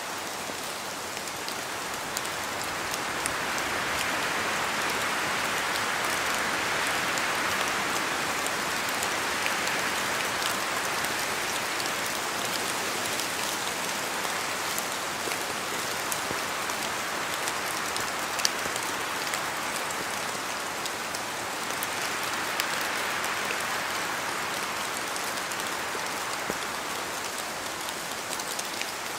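Steady rain with sharp drops falling from trees, many small ticks over a continuous rush. The rush swells a few seconds in and again past the twenty-second mark, as wind moves through.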